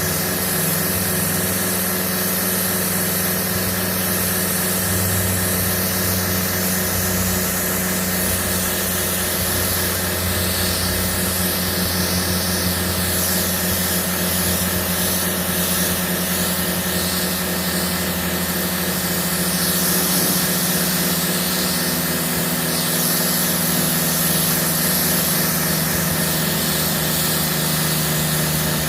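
Battery-powered Kärcher pressure washer running continuously, its electric pump motor humming steadily under a hiss of water spray. The hum shifts slightly in pitch a couple of times.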